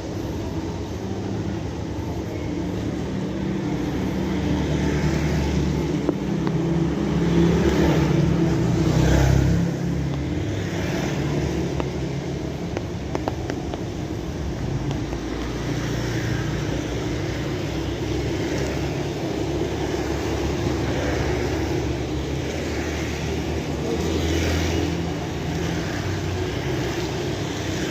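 Steady rain falling, under a low rumble like a passing vehicle that swells and fades about a third of the way in, with a smaller swell near the end.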